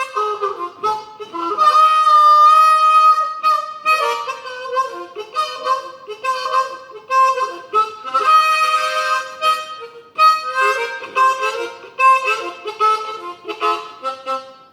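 Blues harmonica solo: a mix of long held notes and quick runs of short notes, breaking off right at the end.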